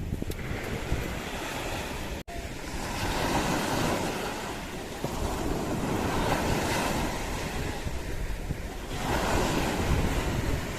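Sea waves washing ashore, the surf swelling louder every few seconds, with wind buffeting the microphone. The sound drops out for an instant about two seconds in.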